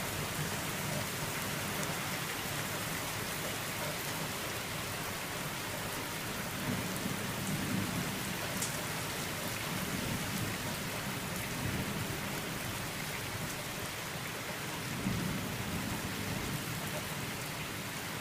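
Heavy downpour: a steady, dense hiss of rain, with low rumbles of thunder swelling several times.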